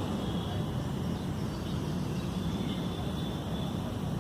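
Steady low outdoor rumble, with faint high bird calls in the background.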